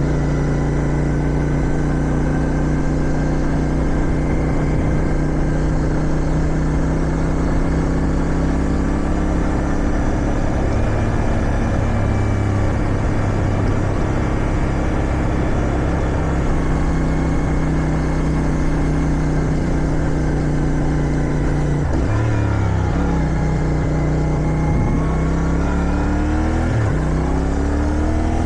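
Sport motorcycle's 450 cc parallel-twin engine running at steady revs under wind noise, then accelerating through the gears near the end, its pitch dropping at each shift and climbing again.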